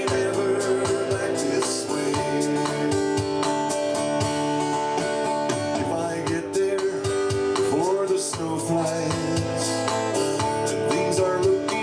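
Acoustic guitar strummed in a steady rhythm, playing a country-folk song.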